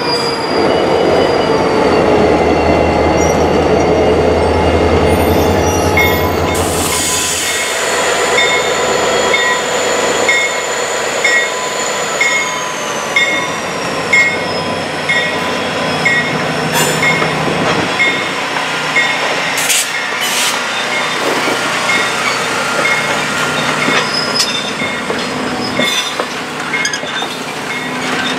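A train rolling past: the low drone of the Norfolk Southern GP40-2 diesel locomotive fades after about seven seconds. The cars then roll by with steady high-pitched wheel squeal, one tone sliding down, and a regular click from the rails about twice a second.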